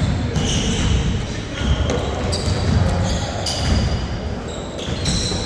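Basketball being dribbled and bounced on an indoor court during a game, with repeated thuds and several short, high squeaks of sneakers on the floor.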